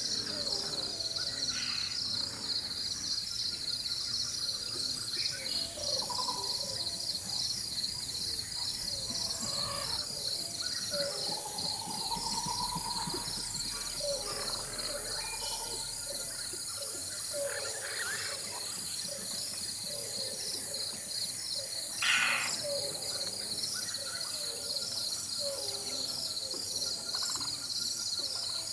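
Rainforest ambience: a steady chorus of insects pulsing rapidly in a high band, with scattered bird calls over it, one rising whistle-like call near the middle and a brief louder call a little over three-quarters of the way through.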